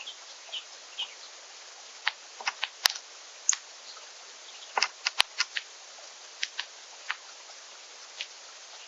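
Birds at a backyard seed feeder: irregular sharp ticks and clicks of pecking and seed cracking, with a couple of short high chirps, over a steady hiss.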